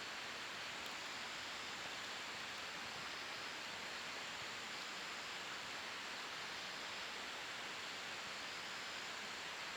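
Wood fire burning in a steel fire pit: a steady, even hiss with hardly any crackle, and one faint tick about a second in.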